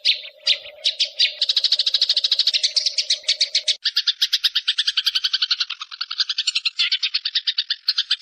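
Recorded songbird song: fast chirping trills, about ten high notes a second, starting just after silence and changing to a denser, fuller trill about four seconds in. A steady low hum runs under the first half.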